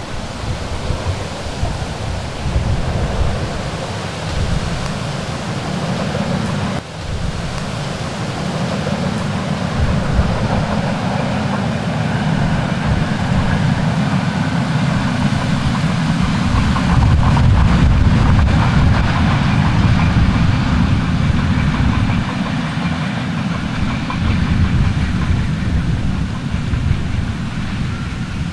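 A train running by, heard under heavy wind rumble on the microphone. The sound breaks off briefly about seven seconds in.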